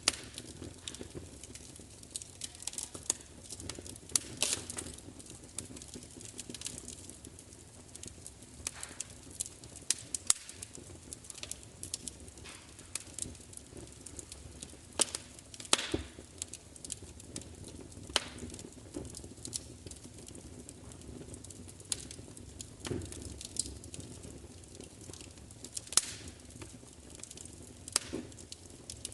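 Wood fire crackling: irregular sharp pops and snaps, a few loud ones, over a low steady hiss.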